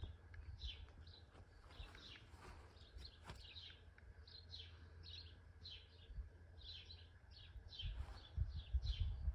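A small bird chirping over and over in short high calls, two or three a second, over a low steady rumble. Footsteps start up near the end.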